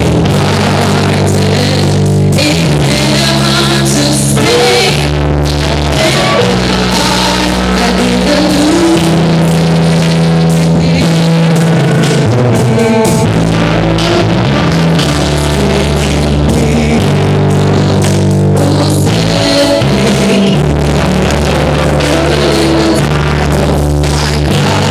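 A live band plays a gospel song's instrumental passage, with drums and guitar over long held low notes that change every second or two.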